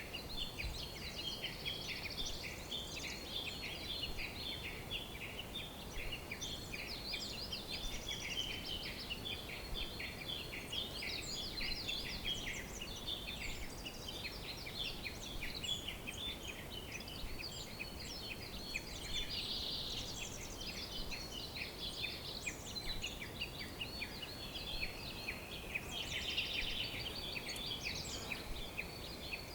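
A dense chorus of many songbirds singing at once, with quick high chirps and short trills overlapping without a break.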